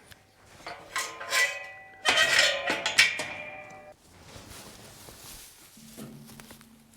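Three metal clangs about a second apart, each ringing on and dying away, as of steel pen gates or hurdles being knocked; near the end a cow starts a low moo.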